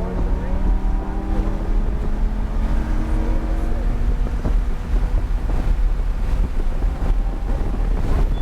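Lamborghini Huracan's V10 engine running under load on a race track, heard from inside the cabin with wind and road rumble; its note rises slowly over the first few seconds.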